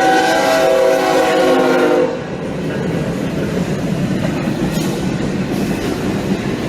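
A loud horn sounding a held chord of several steady tones, stopping about two seconds in, followed by a steady rumbling noise.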